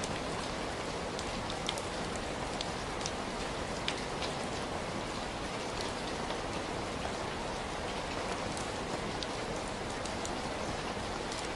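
Steady heavy rain falling, with many individual drops ticking sharply on a near surface against the even rush of the downpour.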